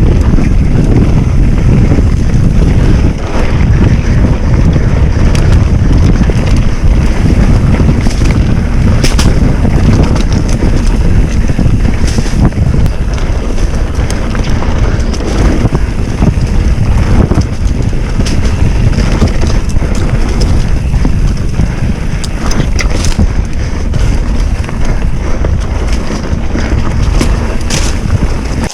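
Loud, steady wind buffeting on the microphone of a camera on a moving bicycle, with scattered sharp clicks over the rumble. It cuts off suddenly at the end.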